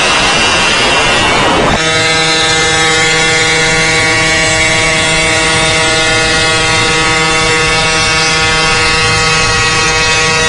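Motorcycle engine noise: a loud rush, then an abrupt cut about two seconds in to a steady drone that holds one pitch.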